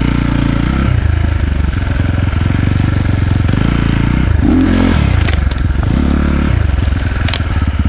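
Enduro motorcycle engine running under throttle on a dirt trail, its pitch shifting and rising briefly past halfway, with a few clattering knocks near the end.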